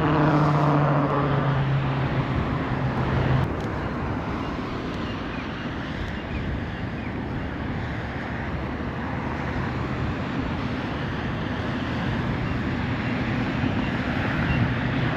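Steady wind rushing over the microphone while riding an e-bike, with a low steady hum that cuts off a few seconds in.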